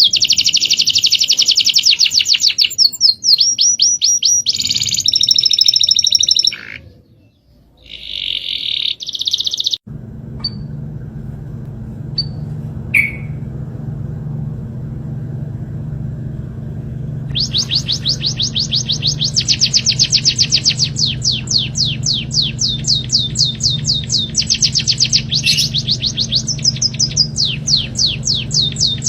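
Small songbird chirping in fast runs of repeated high notes, broken by a pause of a few seconds about a quarter of the way in and picking up again past halfway. A steady low hum runs under the second half.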